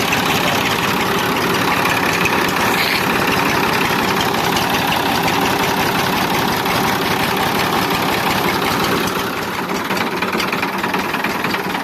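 Massey Ferguson 5245 tractor's diesel engine running at idle, a little quieter from about nine seconds in. The engine is being tested for a fault at its fuel injection pump, whose stop switch has been shutting it off on its own.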